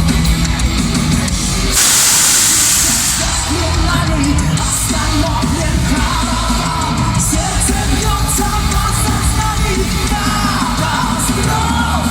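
Live heavy-metal band playing loud, with a loud hissing wash about two seconds in. From about four seconds in, a vocalist sings a held, wavering line over the band.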